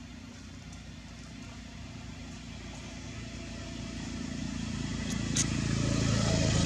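A motor vehicle's engine running with a steady low hum, growing steadily louder as it comes closer, with a short click near the end.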